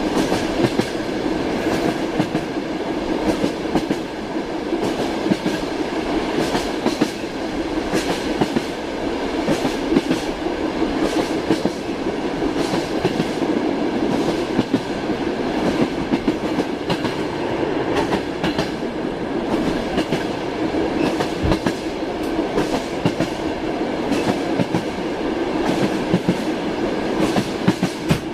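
Passenger train carriage in motion, heard from inside a compartment: a steady rumble with the clickety-clack of the wheels knocking over rail joints at irregular intervals.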